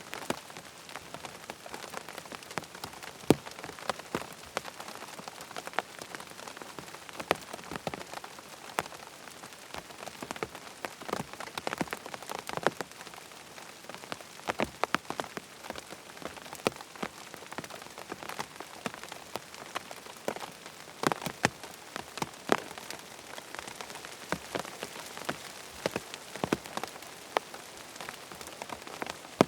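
Steady rain pattering on tent fabric: a constant hiss with many separate drops tapping irregularly, some louder than others.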